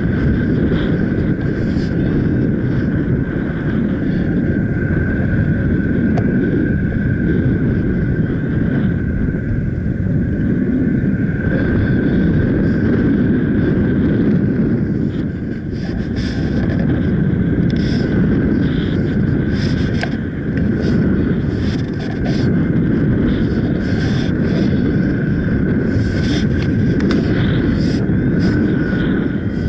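Strong wind blasting over the microphone during a paraglider flight: a loud, steady rumbling rush that eases briefly a couple of times, with a thin, steady high tone running through it.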